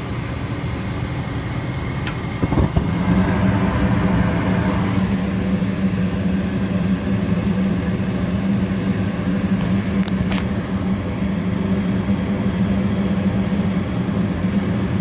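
Goodman gas furnace running with its inducer motor humming. About two and a half seconds in there is a click and the burners light, and the furnace settles into a louder, steady hum.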